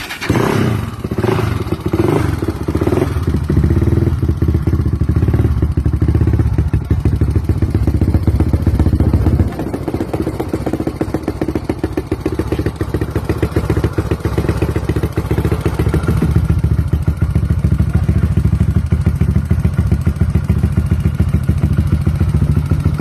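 Yamaha Raptor ATV's big-bore single-cylinder four-stroke engine, with a Looney Tuned aftermarket exhaust, catching on a cold start and running loud. It is uneven for the first few seconds, then runs at a steady idle, settling a little quieter about nine seconds in.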